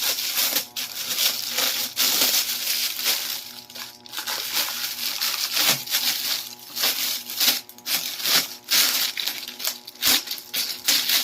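Packing material being handled and pulled away from a boxed power amplifier: continuous crinkling and rustling broken by many sharp crackles.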